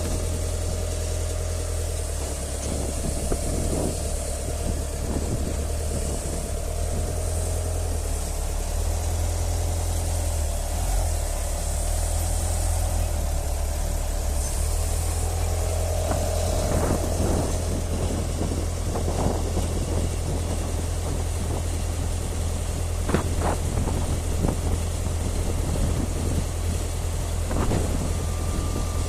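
Steady low engine rumble of idling airport ramp equipment, with a faint steady tone over it, and a few short knocks and clatters from about halfway through.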